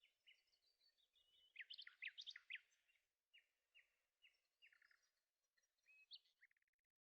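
Faint birdsong: a string of short chirps and quick whistled notes, busiest about two seconds in.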